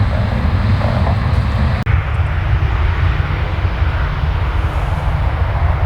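Jet airliner engine noise with a steady rumble, mixed with wind buffeting the microphone. The sound cuts out briefly about two seconds in.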